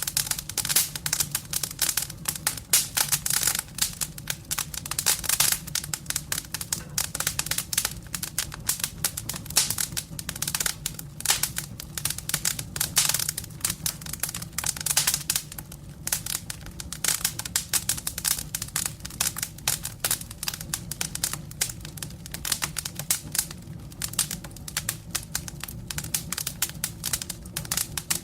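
Firewood burning in a fireplace: a dense, irregular crackling and popping of the burning logs, over a steady low hum.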